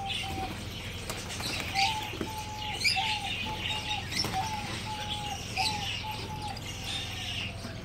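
Birds chirping in short, even whistled notes, about two a second, over a steady low hum.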